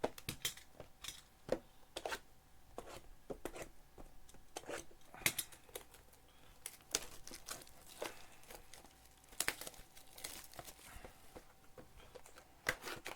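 Plastic shrink wrap being torn and crinkled off a sealed trading-card box, with many irregular sharp crackles and rustles.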